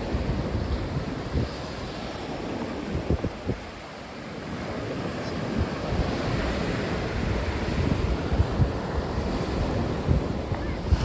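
Sea waves washing in under a strong wind, with gusts buffeting the microphone in uneven low thuds. The wind drops for a moment about four seconds in, then builds again.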